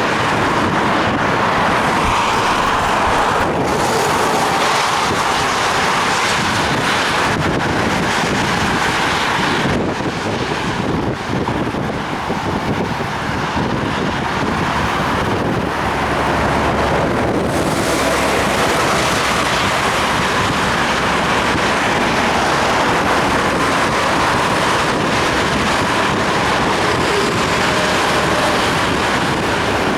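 Steady rushing wind buffeting the microphone of a head-mounted action camera on a moving bicycle, mixed with tyre and road noise on wet pavement.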